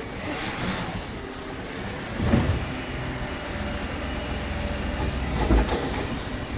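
Kerbside rubbish truck running steadily, with two heavy clunks, one about two seconds in and a louder one near five and a half seconds.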